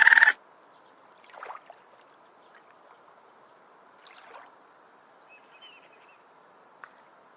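A frog chorus of rapid croaking pulses cuts off abruptly a moment in, leaving a faint outdoor background hiss with a few faint, brief calls.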